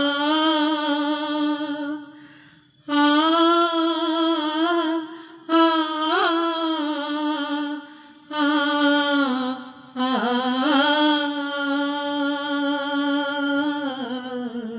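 A woman singing an unaccompanied alaap on a drawn-out 'aa' vowel, the introduction to a ghazal. It comes as five long held phrases with small ornamental turns, with short breaths between them.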